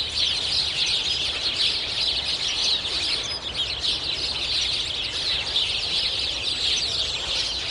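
A dense chorus of many small birds chirping at once, a steady unbroken twittering.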